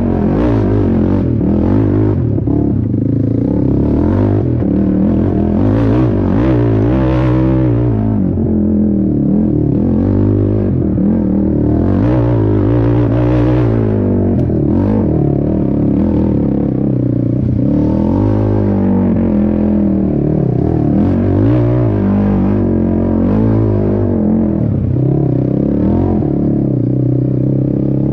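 Racing quad's engine revving up and down repeatedly, accelerating and backing off over and over.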